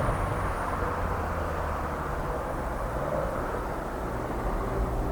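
Steady low rumble of a Boeing 777-212ER's jet engines on the landing roll.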